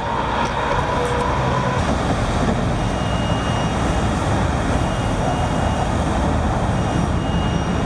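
Steady road traffic noise, a continuous rush of passing vehicles with no distinct events.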